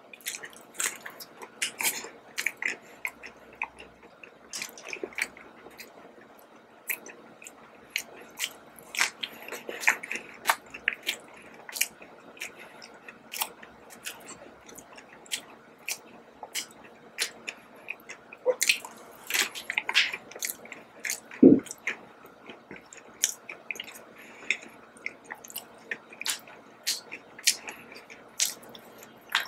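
Close-up chewing and biting of a soft glazed donut topped with sliced almonds: irregular wet mouth clicks and smacks with some light crunching. One louder thump about two-thirds of the way through.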